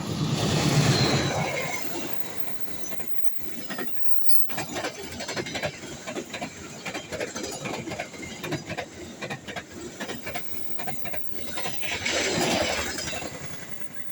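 Train passing at speed: a loud swell as the front goes by, then a rapid clatter of wheels over the rail joints, swelling loud again near the end.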